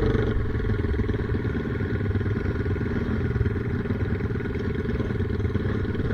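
Off-road enduro motorcycle engine running at a steady pace.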